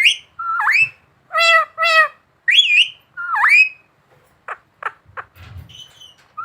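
Pet green parrot calling: a run of about six squawks and whistled calls, several sweeping up and down in pitch, then three short sharp notes a little past the middle.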